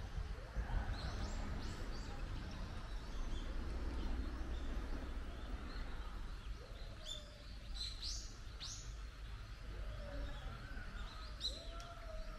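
Outdoor birds calling: a quick run of short, high, downward-sweeping chirps about halfway through and another near the end, with fainter wavering calls, over a low steady rumble.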